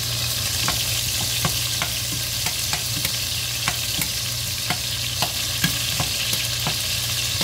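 Chicken pieces and ginger sizzling steadily in hot oil in a stainless steel pot. A metal slotted spoon stirs them, clicking and scraping against the pot about twice a second at an uneven pace.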